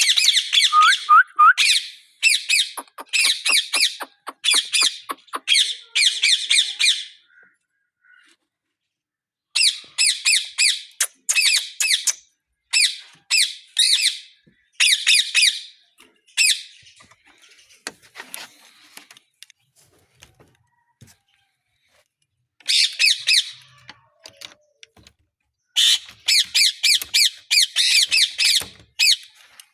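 Parrots squawking in repeated bouts of short, harsh calls, several a second, with pauses of a few seconds between bouts.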